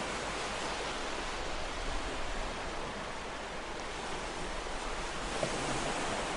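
Ocean surf washing continuously, a steady hiss of breaking and receding waves that eases a little midway and swells again near the end.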